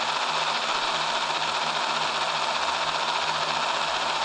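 Steady hiss of radio static from an SDR receiver tuned off-channel on the 2-meter ham band, with a faint hum beneath.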